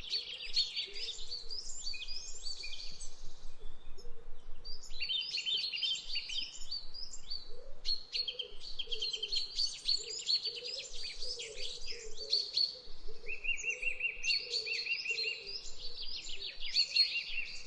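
Several birds chirping and singing at once in quick, overlapping trills, with a lower call underneath; there is a brief lull about four seconds in.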